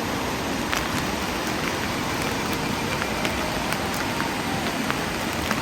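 Steady heavy rain, a dense hiss with scattered sharp drops ticking close by.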